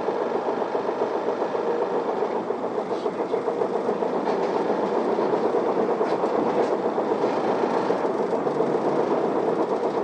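Isuzu Erga city bus's diesel engine pulling away from a stop and running under way, heard from inside the passenger cabin, with a few light clicks and rattles.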